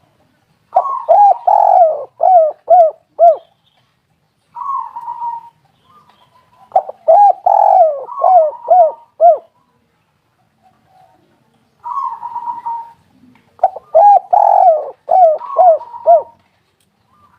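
Spotted dove cooing: three repeated phrases of about six coos each, every phrase preceded by a shorter, steady lead-in note.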